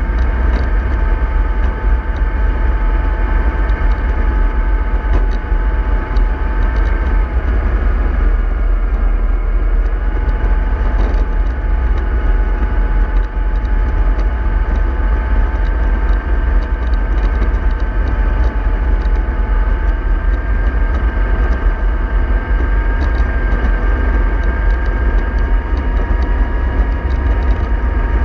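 Remote-control model bus running steadily: a constant whine at two pitches that drift slightly up and down, over a heavy low rumble.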